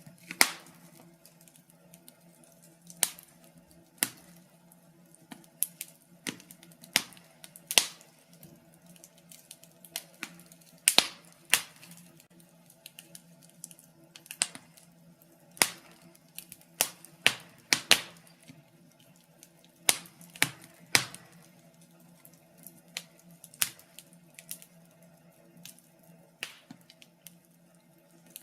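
Wood fire in a fireplace crackling, with irregular sharp pops and snaps every second or so, some much louder than others, over a faint steady low hum.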